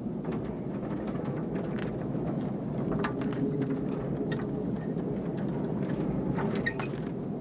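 Storm outside: a steady rush of wind and rain with scattered sharp clicks and rattles, building up over the first few seconds.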